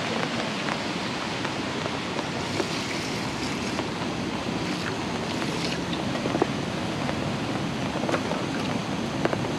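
Steady rain falling, with a few light clicks and knocks from a plastic bottle and an aluminium mess tin being handled.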